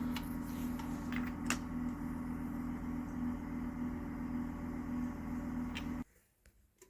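A steady machine hum with a low, even tone and a couple of faint clicks, cutting off suddenly about six seconds in.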